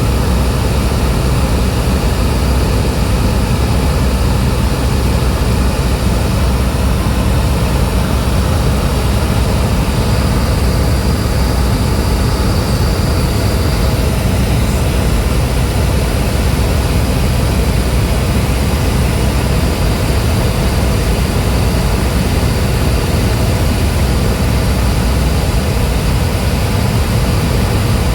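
Cessna 172's piston engine and propeller droning steadily in flight, with no change in pitch or level.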